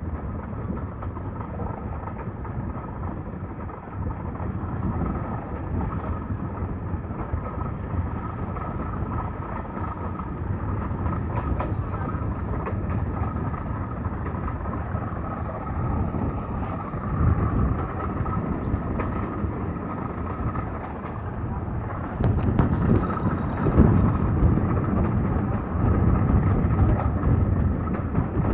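Diesel-hauled heritage passenger train running along the line, heard from an open carriage window: a steady rumble of the coaches on the track, with wind buffeting the microphone. The running noise grows louder about 22 seconds in.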